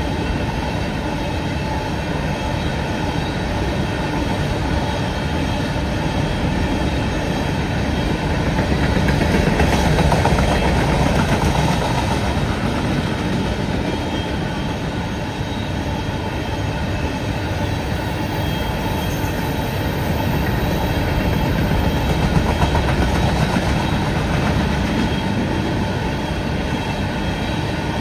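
Long freight train of empty taconite ore cars rolling past at speed: a steady rumble of wheels on rail that swells about ten seconds in and again a little past twenty seconds.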